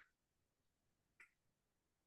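Near silence, with one faint short click about a second in.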